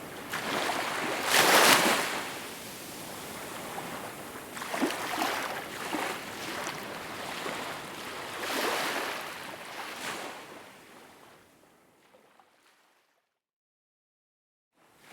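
Small waves washing onto a shore, three swells of surf a few seconds apart, the first the loudest. About twelve seconds in the sound fades out to complete silence, then the waves come back in at the very end.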